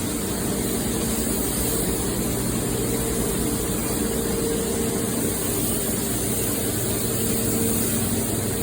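A motor running steadily with a low hum under a constant hiss.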